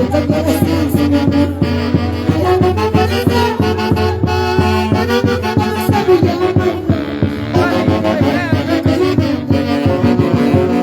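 Live dance-band music led by horns, with sustained melody notes over a steady, regular beat.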